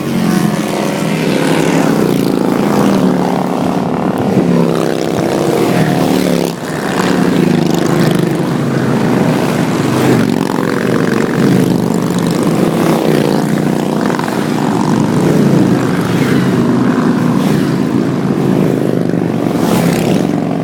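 A steady stream of motorcycles riding past, many engines running at once with their pitches shifting as the bikes go by.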